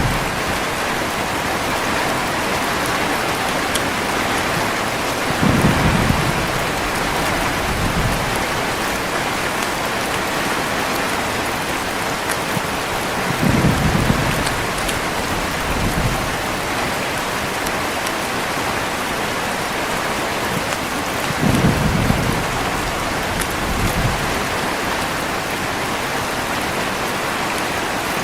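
Heavy rain falling steadily, with low thunder rumbles about every eight seconds, each a short swell followed by a smaller echo.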